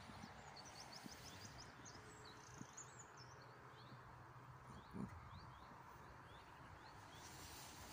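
Faint small-bird chirping: a quick run of high notes in the first second or two, then scattered single chirps, over a near-silent background. A soft knock about five seconds in.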